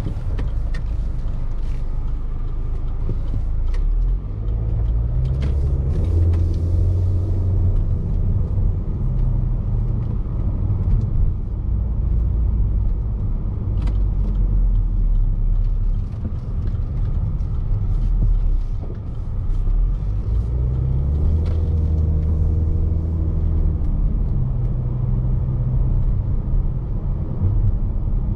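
Interior sound of a Range Rover Evoque's 2.0-litre turbocharged four-cylinder petrol engine and tyres on a bumpy road: steady low road rumble with scattered short knocks from the suspension over bumps. The engine note rises twice under acceleration, about four seconds in and again about twenty seconds in.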